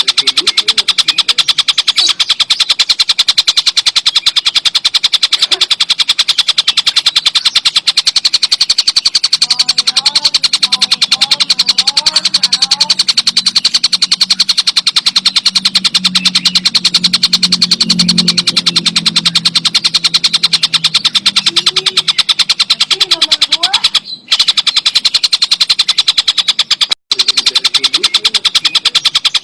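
Kingfisher (tengkek buto) calling in a loud, rapid rattling chatter of fast, evenly spaced notes, kept up without a pause except for two brief breaks near the end.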